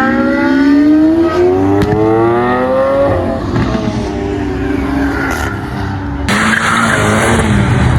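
Car engine accelerating hard, its pitch climbing steadily for about three seconds. A loud hiss comes in near the end.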